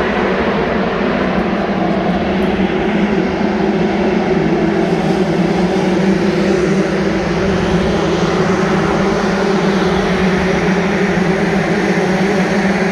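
Steady, unbroken engine drone with a constant low hum, without any single vehicle passing by.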